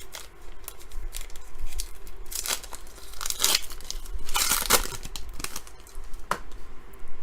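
Foil wrapper of a Panini Prestige basketball card pack being torn open and crinkled: a run of uneven rips and rustles, the loudest about three and a half and four and a half seconds in.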